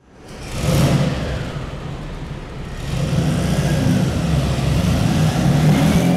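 Car engine revving: it swells up in the first second, eases back a little, then rises again about three seconds in and holds before fading out at the end.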